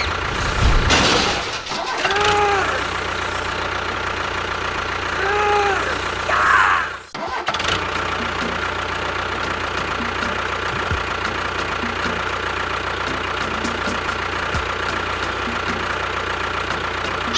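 An engine running steadily, with short rising-and-falling tones twice in the first six seconds. It breaks off briefly about seven seconds in, then runs on evenly with a faint quick ticking.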